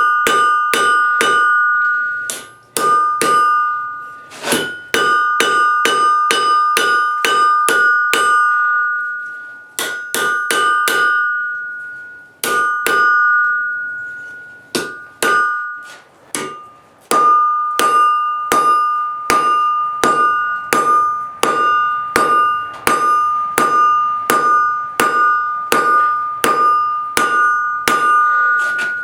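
Hand hammer striking hot steel on an anvil, about two blows a second, each blow leaving the anvil ringing. The blows come in runs broken by short pauses.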